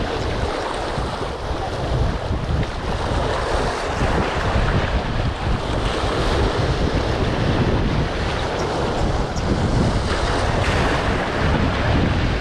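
Strong wind buffeting the microphone, with a low uneven rumble, over a steady rush of waves on the shore.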